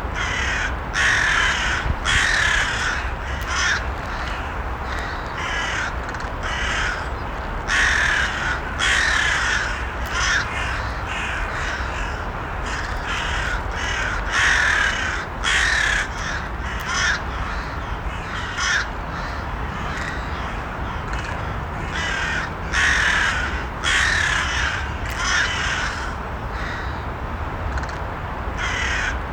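Crows cawing: repeated short, harsh caws in clusters of several calls, with brief gaps between bouts. Under the calls runs a steady low background rumble.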